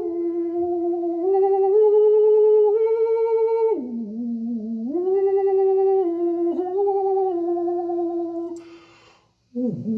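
A single voice toning long wordless notes, each held for a second or more with a slight waver, stepping up and down in pitch and dipping to a lower note about four seconds in. A breath is drawn near the end before the next note begins.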